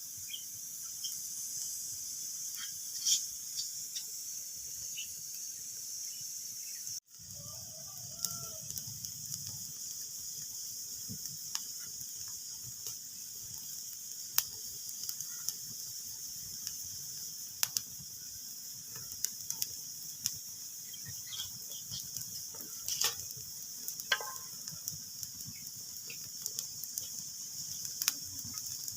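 Wood fire crackling in a fireplace: a steady hiss with irregular sharp pops, a few of them much louder. The sound cuts out for a split second about seven seconds in.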